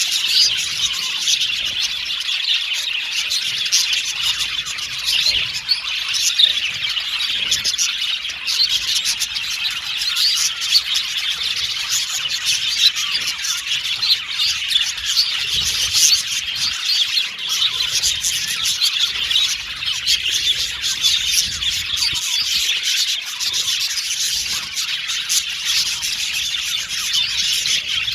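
A group of budgerigars chirping and chattering, many birds calling over one another without a break.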